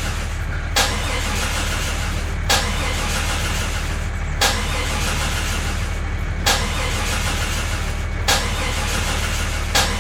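Mini tractor's engine running steadily with a low hum, with a sharp click about every two seconds.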